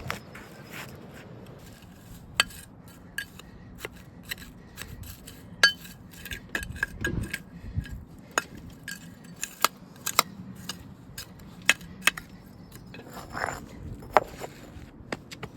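Brick pavers clinking and knocking against one another as they are set into place, a string of irregular sharp clinks, some with a short ring.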